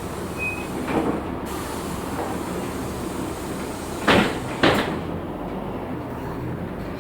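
Inside the cabin of a moving LiAZ 6213.65 articulated bus: steady running and road noise, with two sharp loud knocks about half a second apart around the middle.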